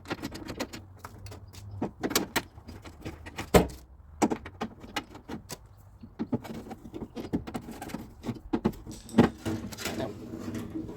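Metal door-latch parts clicking and clanking as the latch assembly is handled and fitted into a car door, with irregular knocks, the loudest about three and a half seconds in and again about nine seconds in.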